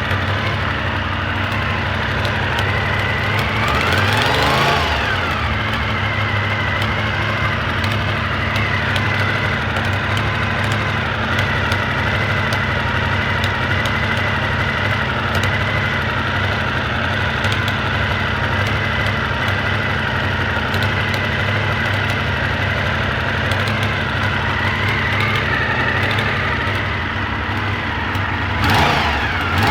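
Honda VFR400R NC21's 400 cc V4 engine idling with a strange exhaust noise and a steady high whine, revved briefly twice: once about four seconds in and again near the end. The owner traced the noise to a failed exhaust O-ring seal, an exhaust leak.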